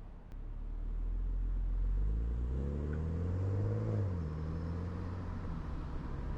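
Steady low road and tyre rumble, with a vehicle engine revving up in pitch from about two seconds in, then dropping off about four seconds in.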